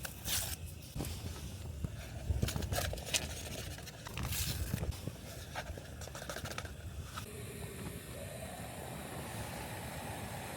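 Rustling and scattered clicking handling noises for the first seven seconds, then a steady hiss that swells a little near the end.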